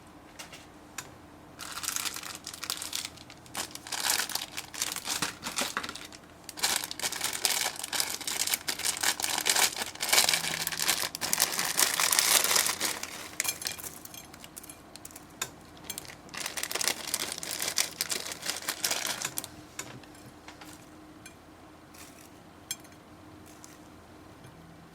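Hands squeezing and working slime, making wet crackling and popping sounds in several bursts of a few seconds each, loudest about halfway through.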